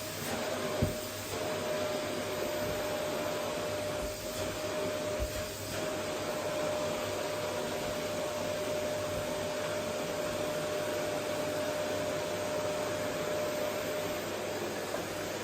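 Vacuum cleaner running steadily, a motor whine held over its rushing air noise, with a single light knock about a second in.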